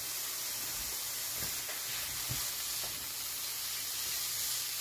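Sliced sausage and zucchini noodles sizzling steadily in a frying pan, with a few soft knocks and scrapes of a silicone spatula stirring them.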